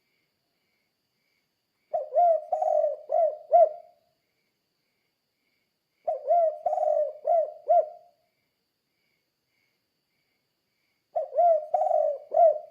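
Spotted dove (tekukur) singing its 'kuk 2' song: three phrases of four or five low coos each, a few seconds apart.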